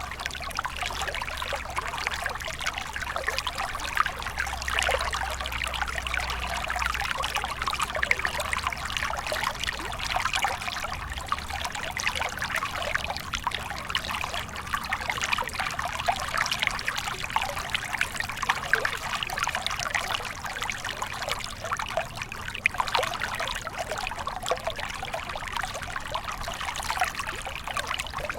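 Water stream flowing with a steady trickling sound.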